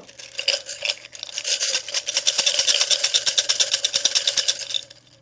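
Small metal objects shaken rapidly, a fast jingling that builds about a second in and fades near the end, with a steady ringing tone underneath.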